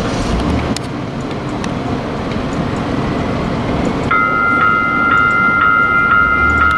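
SacRT light rail train running with a steady low rumble. About four seconds in, a warning bell starts ringing at about two strokes a second.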